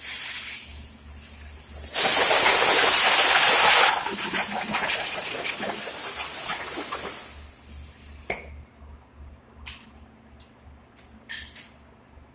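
A jet of pressurized air or spray hissing for about seven seconds, loudest between two and four seconds in, then a few light clicks and knocks.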